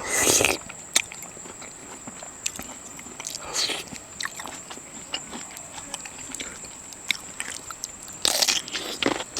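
Scattered small clicks and crunches of eating and handling food, with three short louder rustling bursts, over a steady high insect drone.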